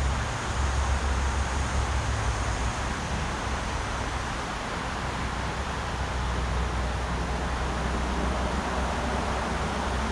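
Rushing water of a mountain river, a steady hiss, with wind rumbling low on the microphone.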